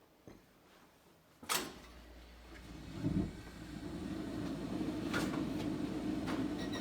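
A sharp switch click about a second and a half in, then the hot-water boiler system starts up with a low steady hum that builds over the next few seconds, with another click near five seconds. The freshly repaired B&G circulator pump runs quietly under the hum, with no banging.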